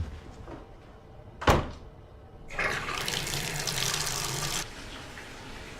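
A single sharp knock, then water gushing from a tap for about two seconds, starting and cutting off abruptly.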